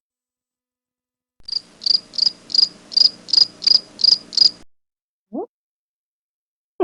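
Cricket chirping: about nine even chirps, roughly three a second, that start and stop abruptly out of dead silence, like an edited-in "crickets" sound effect. A short hummed "mm" follows near the end.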